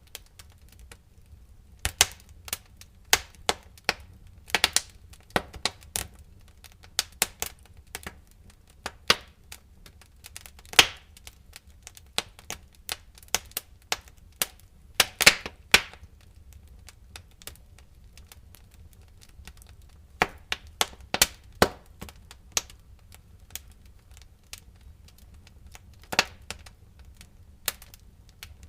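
Wood fire crackling in a fireplace: irregular sharp pops and snaps of burning firewood, some much louder than others, over a steady low rumble of the flames, with quieter stretches of only a few pops.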